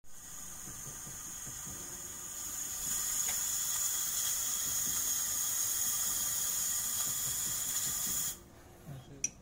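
Espresso machine steam wand releasing steam: a steady hiss with a high whistle in it. It grows louder about two and a half seconds in and cuts off after about eight seconds.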